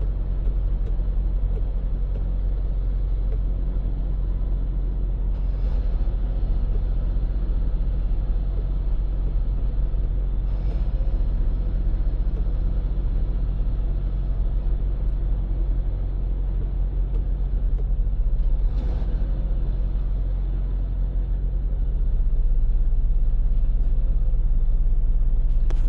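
Cab-interior sound of a Freightliner semi truck's diesel engine running steadily while driving, a low even drone. A few faint clicks come through, and it grows a little louder near the end.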